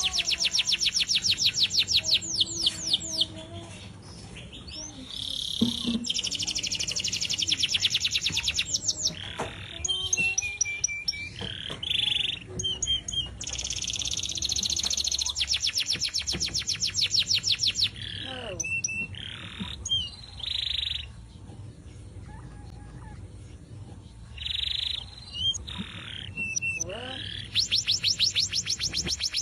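Domestic canary singing: fast high trills in runs of a few seconds, broken by short whistled notes and brief pauses.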